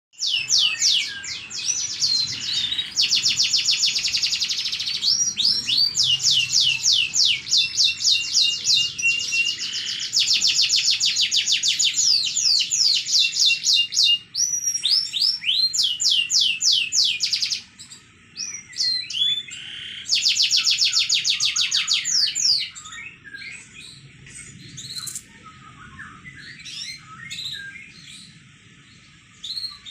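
Domestic canary singing in long, loud, rapid trills of repeated sweeping notes, broken by short pauses. About three-quarters of the way through, the song gives way to softer, scattered chirps.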